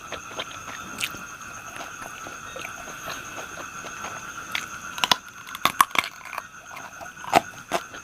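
Close-up chewing and crunching of fried pork intestine, with crisp bites that come thickest about five to six seconds in and again near the end. A steady high insect-like drone runs behind.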